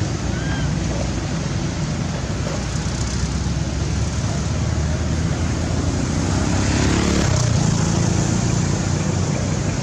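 Steady outdoor background rumble and hiss, with a faint short squeak about half a second in and a low hum swelling about seven seconds in.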